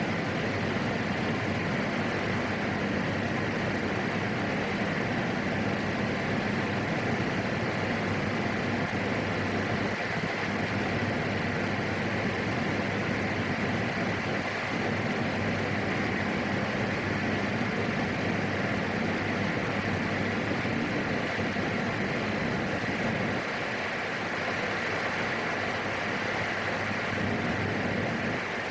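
Steady cockpit drone of a PAC 750XL single-engine turboprop in flight.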